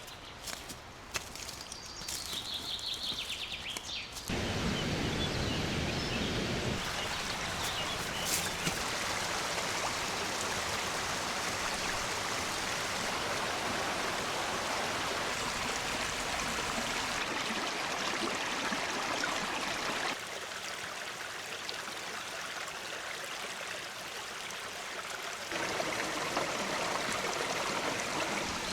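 Rushing river water: a steady, even hiss that jumps in level several times where the shots change. The first few seconds are quieter, with scattered clicks.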